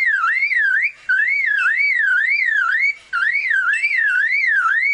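Superb lyrebird mimicking a car alarm: a loud warbling whoop that rises and falls about three times a second, in phrases broken by two brief pauses.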